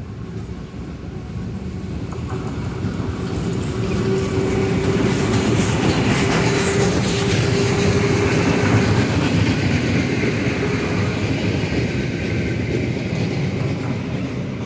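Passenger train hauled by a Pt47 2-8-2 steam locomotive with two coaches pulling out and passing close by, wheels clicking over the rail joints. The sound swells over about six seconds and eases slightly near the end, with a thin steady whine from about four to eight seconds in.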